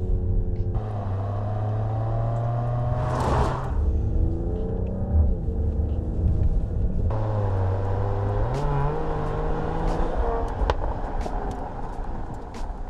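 Turbocharged 3.0-litre inline-six of a Mercedes-AMG GLE 53 Hybrid Coupe accelerating through the gears. The pitch climbs, drops at an upshift about three seconds in with a brief whoosh, then climbs again.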